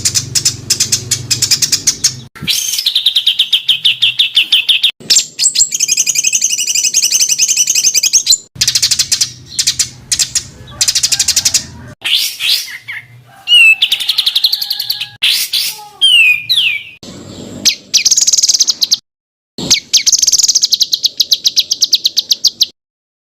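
Songbirds singing dense bursts of fast, rapid-fire repeated notes, the harsh 'tembakan' style of song used as masteran for kept songbirds. The clips are spliced with abrupt cuts, with a few quick rising and falling whistles midway and two brief silences near the end.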